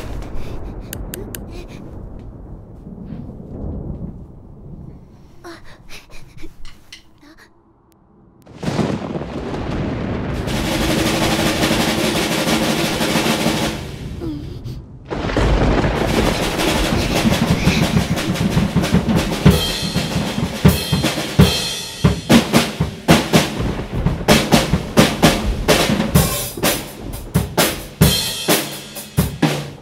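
Drum kit played with sticks. After a quiet opening with a few soft taps, a roll swells up about eight seconds in and holds loud. It breaks off briefly around fifteen seconds, then gives way to fast, driving playing with sharp snare, bass drum and cymbal hits.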